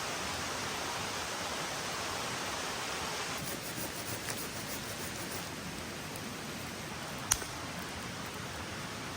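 Steady rain falling in a forest, an even hiss of drops, with a single sharp click about seven seconds in.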